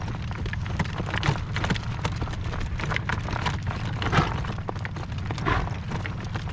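Horse's hoofbeats clip-clopping on hard ground, a rapid run of short knocks, with strong wind buffeting the microphone as a steady low rumble underneath.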